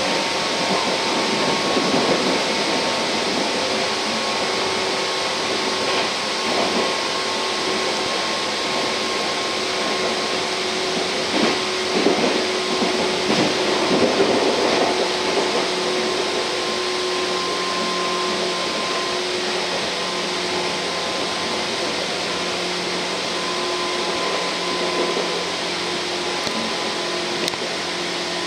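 Cabin noise of a Tokyu 8500 series electric train running: a steady rumble and hiss with a few held motor tones. About halfway through comes a short stretch of clattering, wheels passing over rail joints or points.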